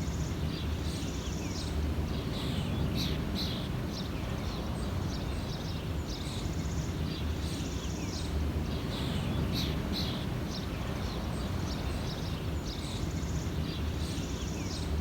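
Outdoor ambience of songbirds calling and singing: short chirps and a recurring buzzy phrase every few seconds, over a steady low rumble of wind.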